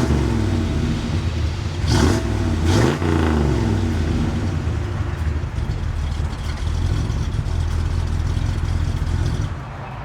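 1967 Chevrolet Impala SS's 396 big-block V8 idling and being blipped: two quick revs about two and three seconds in, then a steady idle that drops in level just before the end.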